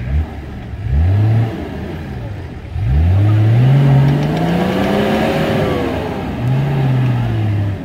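Off-road 4x4's engine revving hard in three bursts, a short one about a second in, then a long rising rev that falls back, then another near the end, as the vehicle hangs on a bump with its wheels spinning.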